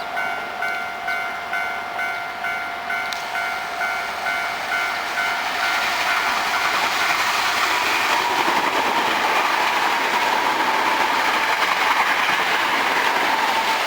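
Japanese level-crossing warning bell ringing about twice a second as a Hankyu 5300 series train approaches. From about five seconds in, the train's running noise builds and swamps the bell, with a steady whine from its Toyo Denki traction motors.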